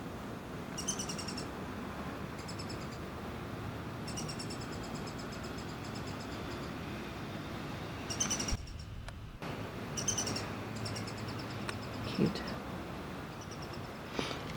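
Fledgling downy woodpecker calling: short runs of rapid high-pitched notes, repeated every second or two.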